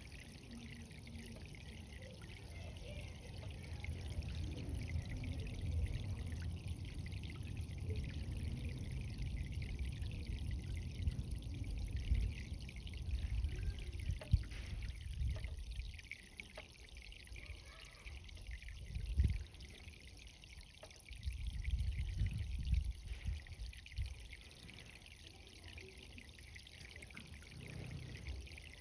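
Irrigation water running and trickling as plants are watered: a steady hiss, with low rumbles that come and go.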